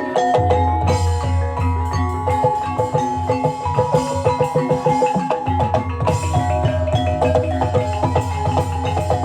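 Javanese gamelan music accompanying an ebeg trance dance: a busy pattern of struck, ringing metallophone notes over a sustained deep bass tone that drops out briefly about five seconds in.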